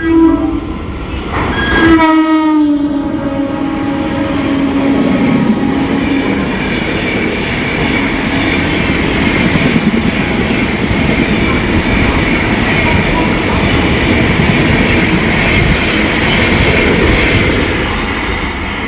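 A WAP-7 electric locomotive on a passing express sounds its horn twice, the second blast dropping in pitch as it goes by. Then comes the steady rumble and wheel clatter of the coaches rolling through at speed.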